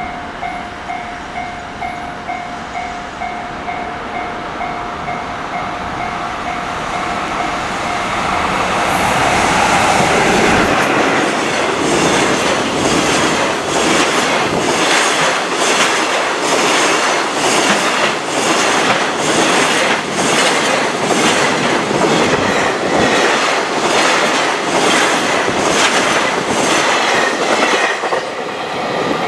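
Railway level-crossing warning bell ringing in a steady repeating ding. From about nine seconds in, a JR Freight EF66 electric locomotive and a long train of container wagons pass close by, the wheels clattering rhythmically over the rail joints. Near the end the last wagon goes by and the crossing bell is heard again.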